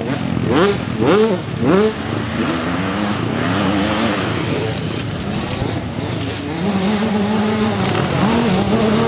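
Motocross bike engines revving hard, with three quick rising sweeps in pitch in the first two seconds as a bike accelerates. After that the engines run at a steadier, wavering pitch.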